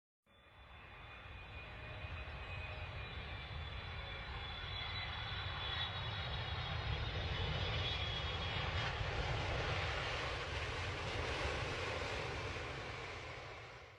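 Jet airliner's engines running, a steady rumble with a faint high whine over it; it fades in at the start, grows louder through the middle and fades out at the end.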